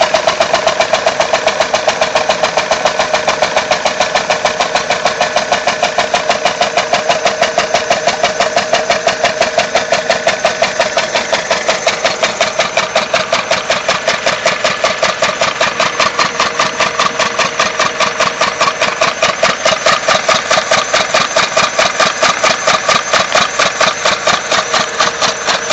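Homemade two-stroke compressed-air engine driving a water pump, chuffing in an even rhythm of about five exhaust pulses a second. It runs on a compressor tank that is running out of air.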